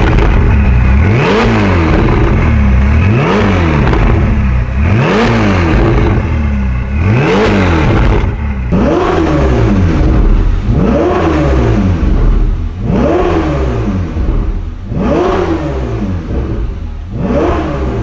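Ferrari 488 GTB's 3.9-litre twin-turbo V8 breathing through an IPE titanium full exhaust with high-flow catted downpipes, revved over and over. Each rev rises and falls in pitch, about one every two seconds.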